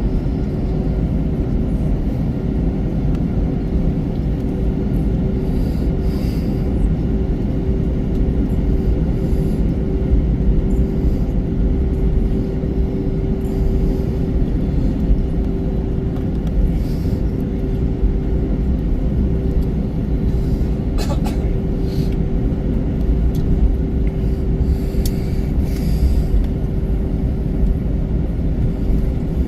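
Airbus A321 cabin noise: a steady low rumble with a constant hum from the airliner's running engines, at an even level that suits taxiing or idling rather than a takeoff run. A few faint clicks sound about two-thirds of the way through.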